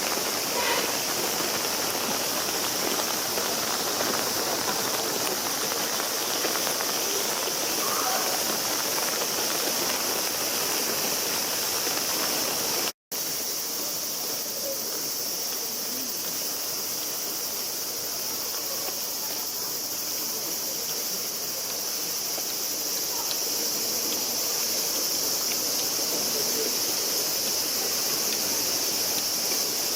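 Steady hiss of a heavy summer downpour, cutting out for an instant about 13 seconds in.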